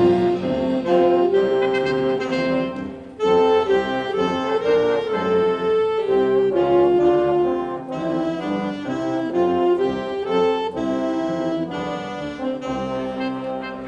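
High school concert band playing a holiday piece: sustained brass and woodwind chords moving from note to note, with a short break about three seconds in.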